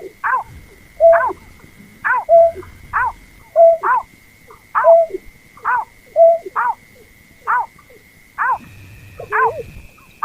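Berkik (snipe) lure call: short, sharp, ringing notes repeated over and over, often in pairs, about one to two a second. A steady high whine runs behind the calls and steps up in pitch near the end.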